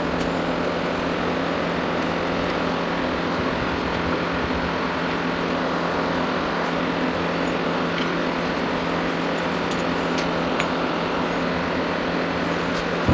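A steady mechanical hum under an even noisy rush, with a few faint clicks near the end.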